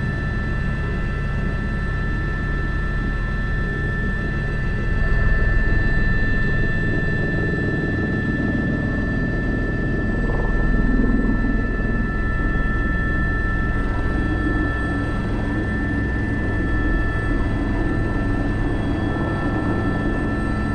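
Airbus H125 helicopter in flight, heard from the cockpit: a steady high turbine whine over the low rotor noise, swelling briefly twice, about five and ten seconds in.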